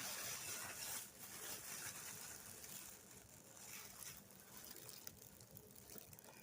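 Faint rustling of a loose pile of pin-back buttons being handled and sorted by hand, coming in soft bursts.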